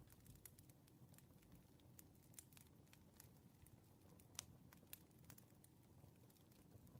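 Faint crackling wood fire: irregular small pops and snaps over a low rumble, with one sharper pop a little past the middle.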